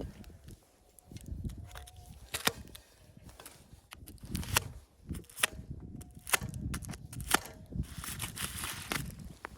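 A series of sharp, irregular clicks and knocks, several a second at times, over a low rumble.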